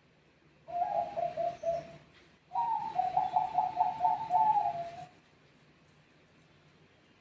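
Zebra dove (perkutut, Bangkok song line) cooing: two rolling, staccato coo phrases about half a second apart, the second longer and louder.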